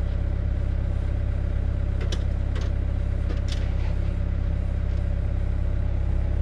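An engine running steadily with a constant low drone. A few faint ticks come about two and three and a half seconds in.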